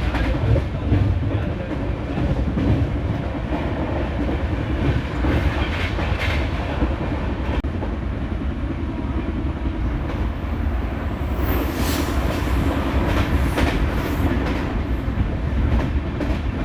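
Moving passenger train heard from inside the coach: a steady rumble with the wheels clacking over rail joints, and a short high squeal about two-thirds of the way through.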